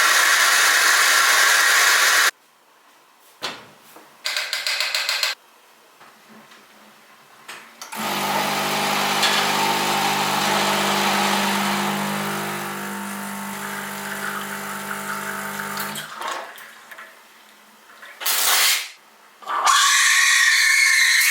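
Electric kitchen appliance motors running in separate bursts: a loud whir for about two seconds at the start, a short one about four seconds in, then a steady motor hum of about eight seconds with a fixed pitch, and two brief bursts near the end.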